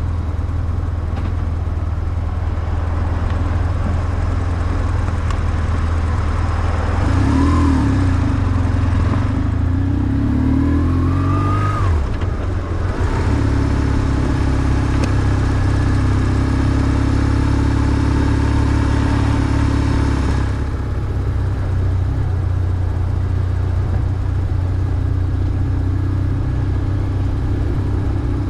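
BMW R1150GS's boxer twin engine running on the move. It revs up twice about a quarter and a third of the way in, drops sharply after the second rise as in a gear change, then runs steadily. Its level falls about two-thirds through, as when the throttle eases off.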